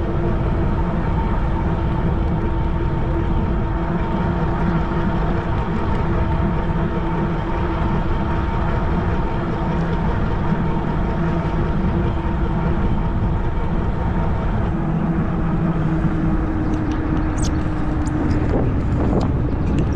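Riding a Cyrusher Kommoda fat-tire e-bike: a heavy steady rush of wind noise over the microphone with a steady motor whine underneath. Near the end the whine fades out as the bike eases off.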